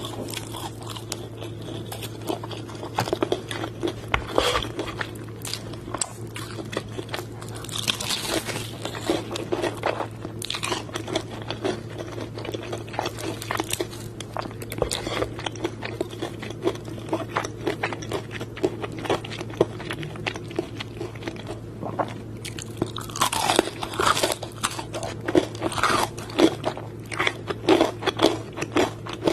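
Close-up crunching and chewing of crispy fried chicken: bites into the breaded coating give dense, crisp crackles, with louder runs of crunching about a third of the way in and again near the end. A steady low hum lies underneath.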